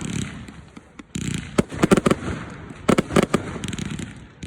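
Fireworks exploding: clusters of sharp bangs and crackles about a second in, around two seconds in and around three seconds in, with a low rumble between them.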